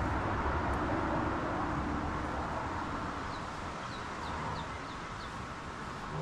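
Strong wind rushing and buffeting the microphone, easing slightly. In the middle a small bird gives five quick, short chirps.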